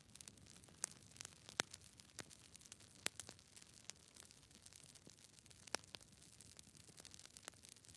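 Faint, irregular crackling clicks over a low hiss, a few of them louder, about a second and a half and three seconds in and near six seconds.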